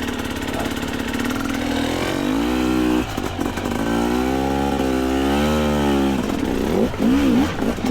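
Two-stroke dirt bike engine running, then revving up about two seconds in, its pitch wavering as the throttle is worked, and dropping back about six seconds in.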